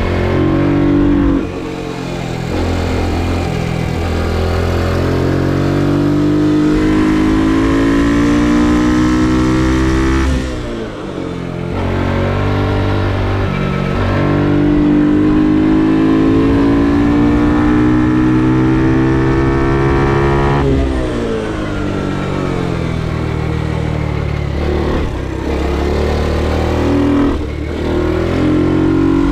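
Ohvale GP2 minimoto's 110 cc single-cylinder four-stroke engine under hard riding. It revs up repeatedly through the gears in short rising steps, and the revs fall away sharply twice for braking into corners, at about a third and two-thirds of the way through.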